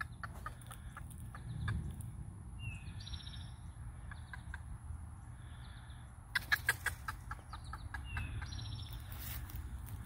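A bird calls twice, each time a short falling note followed by a buzzy higher note, with a quick run of sharp clicks partway through, over a low steady rumble.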